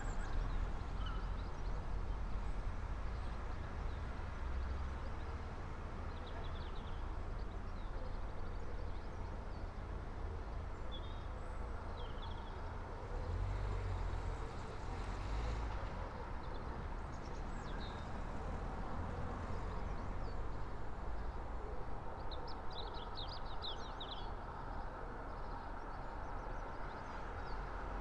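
Early-morning street ambience: a steady low rumble of distant traffic, with birds chirping here and there and a quick twittering trill about two-thirds of the way in.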